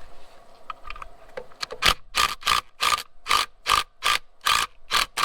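A ratchet wrench working back and forth in short rasping strokes, about two and a half a second. It is turning out a broken stud by a nut welded onto it, and the stud is coming free.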